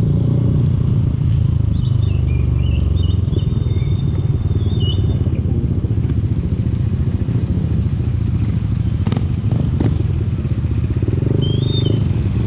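Motorcycle engine running steadily under road and wind noise while riding, picked up by the camera's built-in microphone. Faint high squeaks come in the first half and again near the end, and a couple of short knocks sound about three-quarters of the way through.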